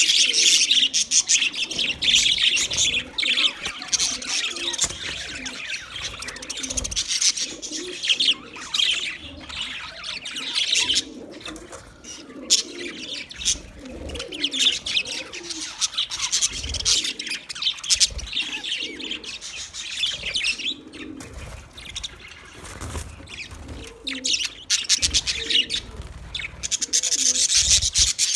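A flock of budgerigars chirping and chattering in a rapid, continuous stream of high chirps over lower warbling. It is busiest at the start and again near the end, and thins out for a few seconds around the middle.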